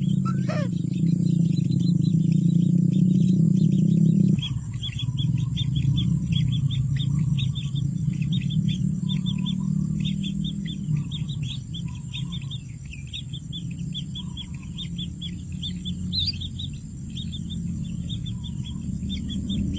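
Small birds chirping in a rapid, continuous run of short high chirps, over a steady low hum.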